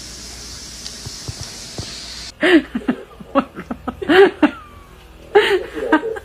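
Steady hiss, then after an abrupt cut about two seconds in, a cat meowing several times, each call rising and falling in pitch.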